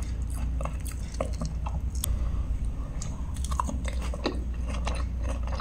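A person chewing mouthfuls of chicken, with small irregular clicks and smacks, over a steady low hum.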